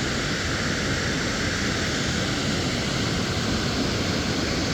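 Water pouring over a dam's waterfall, a steady, even rushing noise.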